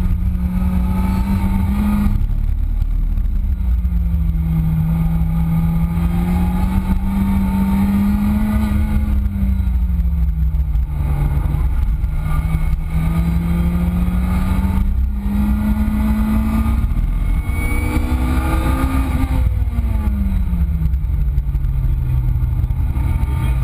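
Lotus Exige S's supercharged four-cylinder engine running hard on track, its note climbing and falling several times as the car accelerates, shifts and brakes, with a steeper drop near the end. A heavy low rumble sits under it throughout.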